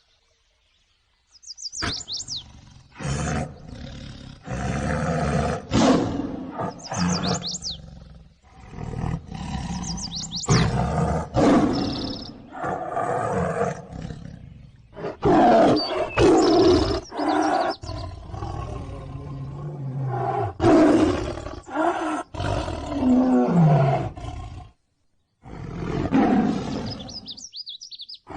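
Tiger roaring and growling in a long series of deep, rough calls, broken by abrupt cuts and short silences. Birds chirp briefly a few times behind it.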